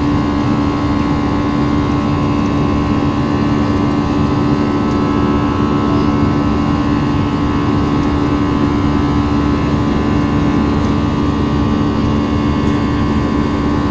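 Airbus A321 jet engines and airflow heard inside the passenger cabin: a loud, even rush with a steady droning hum, unchanging throughout.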